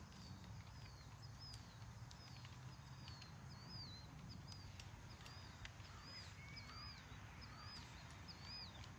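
A small bird repeating a short, high chirp, about two a second, over a faint low rumble of background noise.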